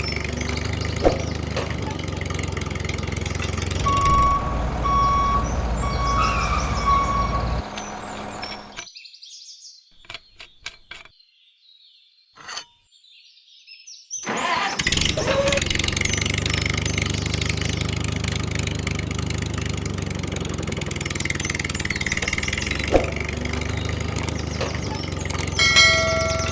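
Motor of a homemade mini model tractor running steadily, cutting out about nine seconds in, with a few clicks during the pause, then starting up again about six seconds later and running on.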